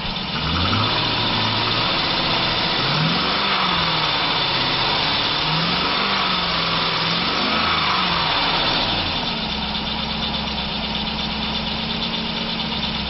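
A 2005 Chevrolet Silverado's 5.3-litre V8 running and being revved up and back down about five times. It then settles to a steady idle for the last few seconds.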